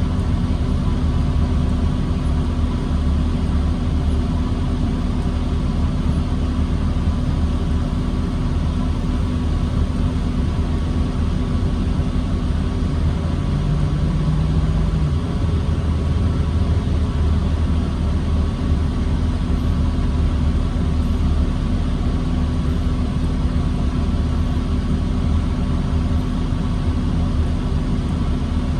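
2009 New Flyer D40LFR diesel transit bus running at a steady low drone with a constant hum, idling or crawling in stop-and-go traffic rather than accelerating. A short extra low hum sounds briefly about halfway through.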